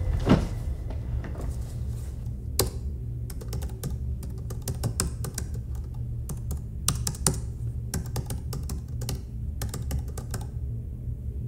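Typing on a laptop keyboard: irregular runs of quick key clicks with short pauses between them, over a low steady hum.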